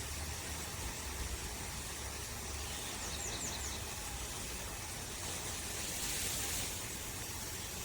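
Steady hiss of a Camplux portable propane tankless water heater running, its burner lit, with water flowing through it at full flow.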